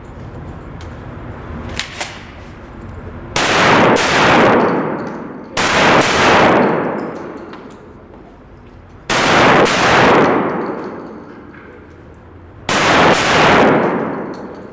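Gunshots fired as four quick pairs a few seconds apart, each shot loud with a long echoing tail.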